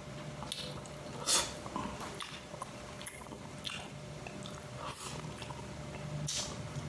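A person chewing food close to the microphone, with short wet mouth clicks and bursts every second or so, over a faint steady low hum.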